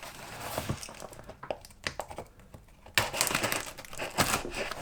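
Parcel packaging crinkling and rustling as it is handled and opened, with irregular crackles and small clicks. The handling gets busier about three seconds in.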